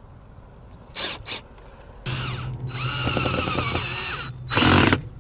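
Power drill running for about two seconds, its whine rising as the motor spins up, after two short scrapes. A louder noisy burst comes near the end.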